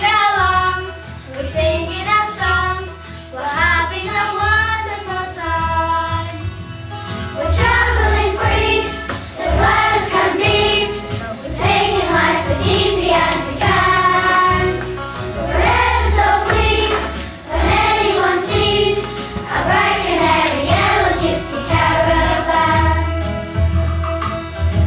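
A children's choir singing with a musical accompaniment and a steady bass line, in phrases of a few seconds each.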